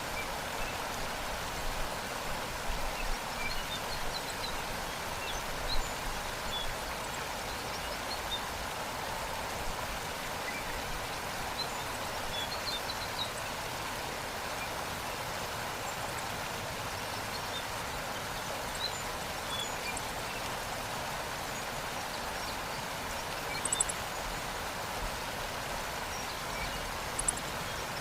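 Waterfall pouring in a steady, even rush of water, with faint scattered bird chirps above it and a couple of brief high bird calls near the end.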